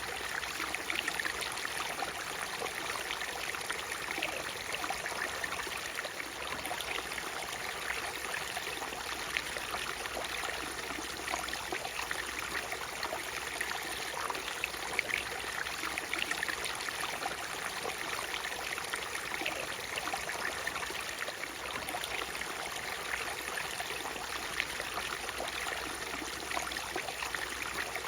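Natural waterfall, water splashing and trickling steadily, with a constant stream of small splashes.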